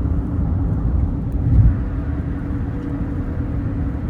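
Steady low rumble of a car's road and engine noise heard from inside the moving car, with a brief louder swell about one and a half seconds in.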